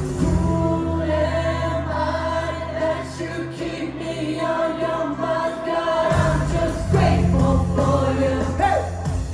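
Church worship band and singers performing a praise song, with held vocal notes over bass and keyboard; the bass drops out for a couple of seconds in the middle and comes back in.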